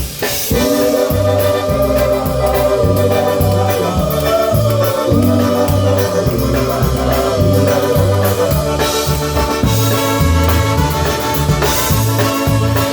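Live polka band playing, with a bass line stepping between notes in a steady pulse under a wavering melody.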